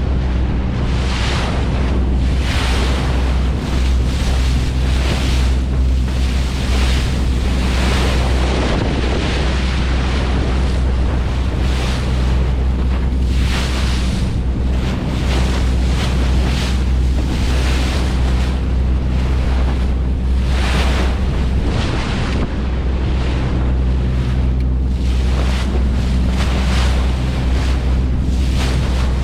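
A boat's engine running steadily with a low hum, under rushing wind on the microphone and sea noise that swells and fades about once a second.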